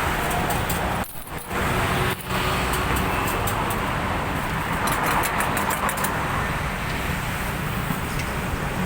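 Steady road traffic noise from passing cars, with a brief drop about a second in and a few light high clicks a few seconds later.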